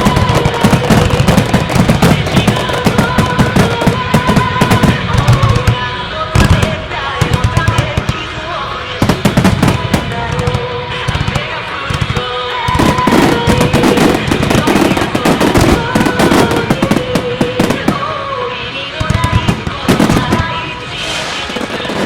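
Pop music over loudspeakers with a sung or played melody, mixed with the rapid crackling and banging of a starmine fireworks barrage set to the music. The bursts come thickest in the first few seconds and in flurries later on.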